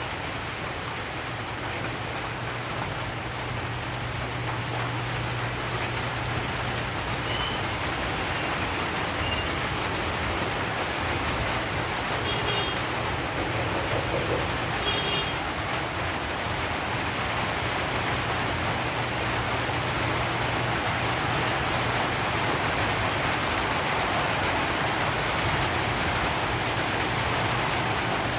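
Steady rain falling on zinc roof sheets, a dense even hiss with a constant low hum beneath it. A few faint short high chirps come through about halfway.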